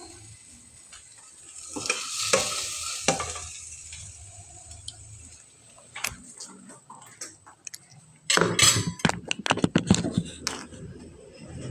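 Food sizzling in a frying pan, with a cooking utensil scraping and clicking against the pan; about eight seconds in, a dense run of sharp clatters of utensil on pan for about two seconds.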